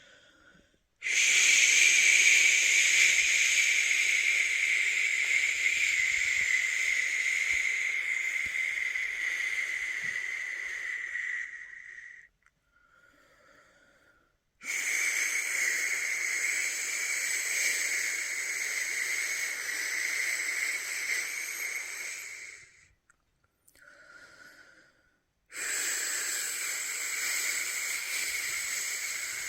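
A person's long, steady 'shhh' shushing, the sound used to settle a newborn to sleep. There are three long shushes, the first about eleven seconds and the second about eight, with short pauses for breath between them; the third begins near the end.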